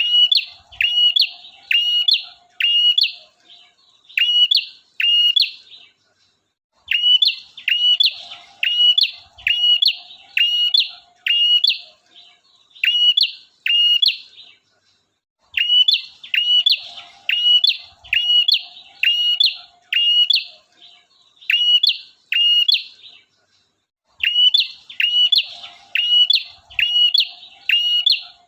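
Male prinia (prenjak) singing a lure song: sharp hooked chirps repeated about three every two seconds, in runs of several seconds with short pauses between them.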